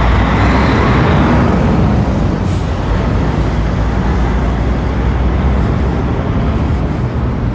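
Motor vehicle running, a steady low rumble with road and traffic noise, brighter in the first couple of seconds.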